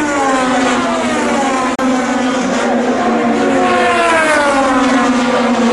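IndyCar race car engines running at high revs, several engine notes sliding down in pitch one after another as the cars pass. The sound drops out for an instant about two seconds in.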